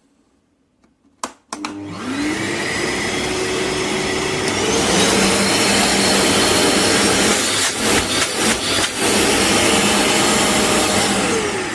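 Kärcher WD 6 P S wet and dry vacuum cleaner's 1300 W motor is switched on with a click. It spins up with a rising whine and runs at full suction, with a few knocks a little past halfway. Near the end it is switched off and the whine starts to fall as the motor winds down.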